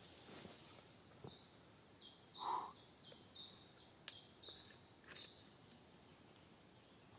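A small songbird singing faintly: a run of about ten short high notes, each stepping down in pitch, repeated about three times a second. One louder, lower call cuts in partway through.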